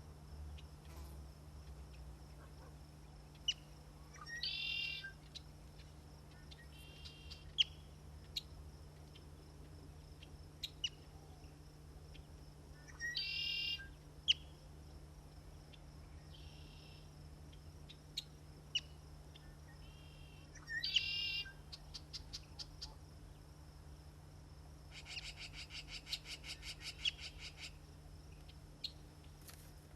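Songbirds calling: a short, harsh phrase repeated about every eight seconds, scattered single chips, and a longer rapid trill near the end.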